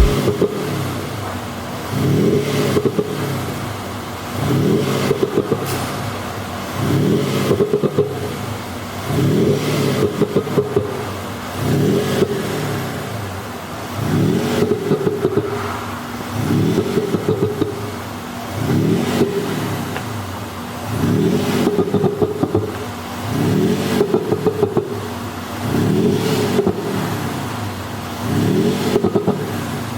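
Range Rover Velar with an active sound exhaust system revved over and over, about every two seconds. Each rev rises in pitch and breaks into a rapid burst of popping and crackling as it falls back: the system's simulated pop-and-bang 'popcorn' overrun sound.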